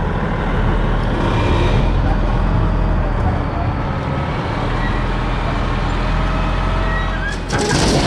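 Skid steer loader's diesel engine running steadily under load, with a short harsh burst of noise near the end.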